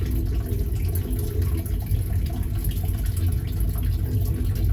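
Freight train cars rolling past with a steady low rumble. The water trickling through a turtle tank's filter runs underneath.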